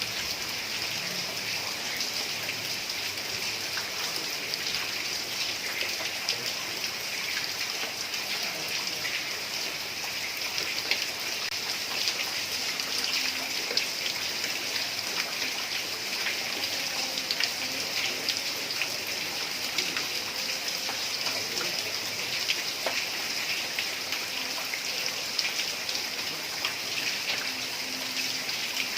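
Heavy rain falling steadily on a tiled roof, a dense even hiss peppered with countless small drop ticks.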